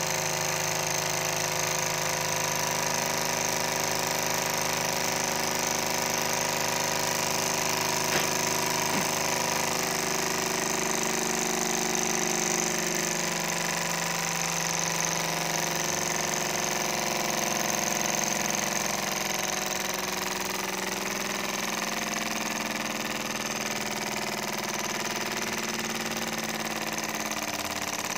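Stirling engine running steadily, a mechanical hum made of several tones whose pitch drifts slowly as its speed changes, with one short click about eight seconds in.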